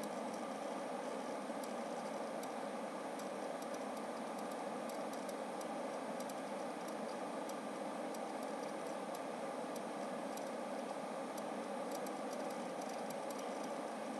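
Seagate FireCuda ST2000LX001 2TB hybrid hard drive making irregular light clicks, some in quick clusters, over the steady whoosh of a computer fan. The owner says it is not the click of death and wonders whether the clicking comes from the drive filling its NAND cache.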